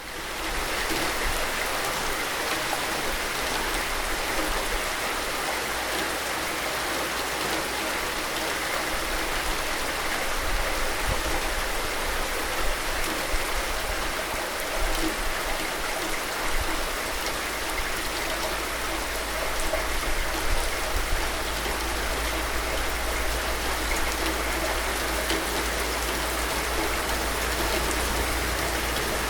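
Steady rain falling: an even, dense hiss with a steady low rumble beneath and scattered louder drops.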